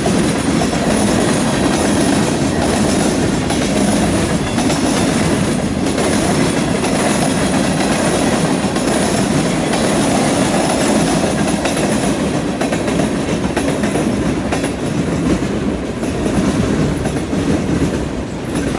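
A string of freight cars, mostly tank cars, rolling past close by. The steel wheels give a steady rumble on the rails, with clickety-clack over the rail joints.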